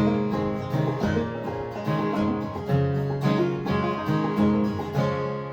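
Banjo and acoustic guitar playing a bluegrass-style folk tune, with plucked notes throughout. The playing winds down and fades near the end.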